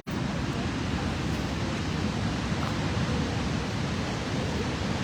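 Steady rushing noise, heaviest in a low rumble.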